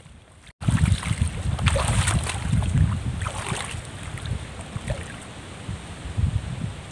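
Strong wind buffeting the microphone in gusts, with a brief dropout about half a second in.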